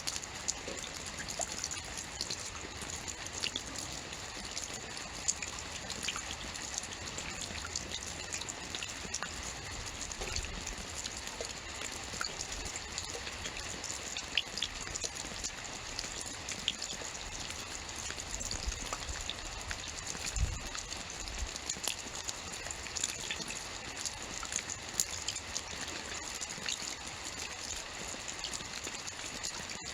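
Steady rainfall: an even hiss with many small drops pattering close by and a few soft low thumps.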